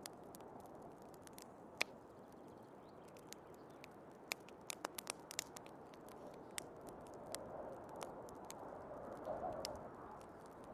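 Wood fire crackling with scattered sharp pops, a quick flurry of them about five seconds in, over a steady rushing of snowstorm wind that swells a little near the end.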